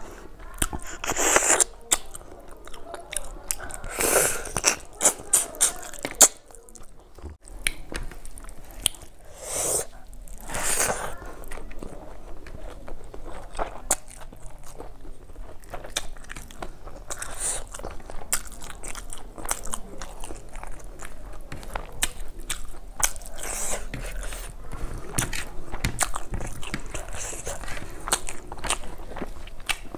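Close-miked chewing of rice and fish curry eaten by hand: a run of irregular wet clicks and crunches, louder in the first dozen seconds, with fingers mixing rice on a banana leaf at times.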